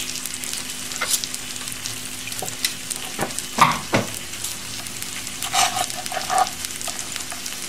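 Food frying with a steady crackling sizzle. Over it come a few sharp knocks of a chef's knife cutting through grilled chicken breast onto a plastic cutting board: the loudest a little before and at four seconds in, and a quicker cluster of knocks and clicks around six seconds in.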